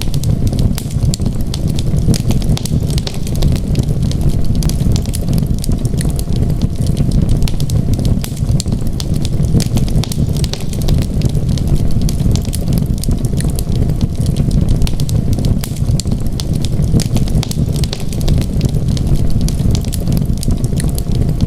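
Wood fire crackling in a fireplace: many small sharp pops and snaps, several a second, over a steady low rumble.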